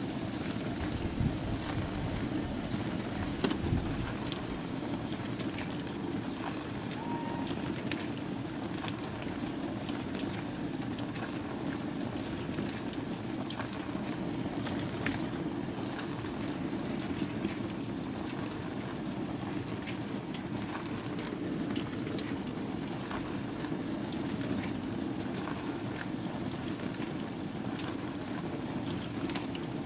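Bosch WAN28220FF washing machine running a Synthetics 40 °C cycle: water sloshing and splashing steadily inside the drum, with a few light ticks.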